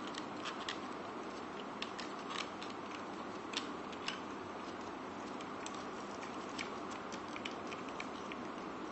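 Irregular light plastic clicks and snaps as the jointed parts of a 1:28 scale toy vehicle are moved and repositioned to transform it into its mech mode, over a steady background hiss.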